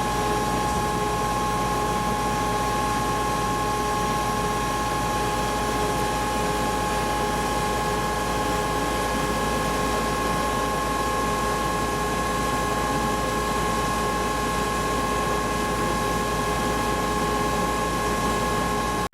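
Steady, loud mechanical drone with several constant whining tones above it. It holds unchanged throughout and cuts off suddenly at the end.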